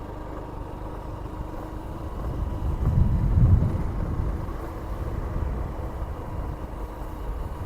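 A vehicle moving along a road: a steady low engine and road rumble that swells briefly about three seconds in.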